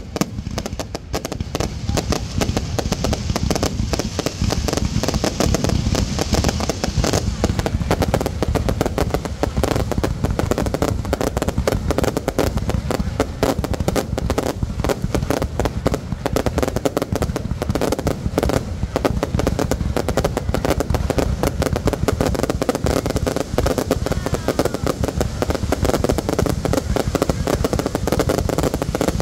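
Fireworks display: a dense, continuous volley of rapid bangs and crackles from shells bursting one after another.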